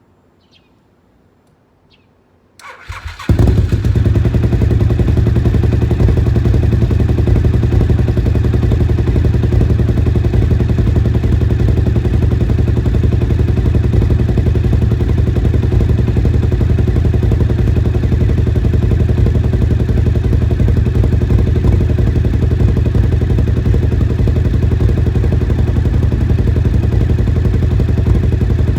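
Suzuki TL1000R's 90-degree V-twin engine cranked on the electric starter about two and a half seconds in, catching within a second and then idling steadily.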